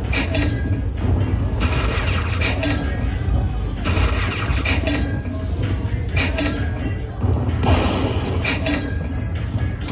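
Lightning Link slot machine's electronic game sounds during its hold-and-spin bonus: short chimes and spinning-reel whooshes repeating every second or two, over the steady din of a casino floor.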